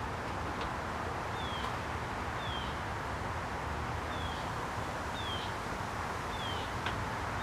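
A bird giving a short, high, falling chirp over and over, about once a second, over a steady outdoor hiss, with a couple of faint clicks.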